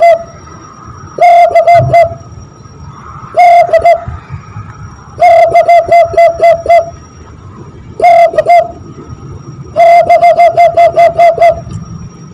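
Cupped-hands whistle blown to imitate a zebra dove (perkutut) cooing. It gives five loud phrases, each a steady hooting note broken by quick stuttering dips, with pauses of about a second between them.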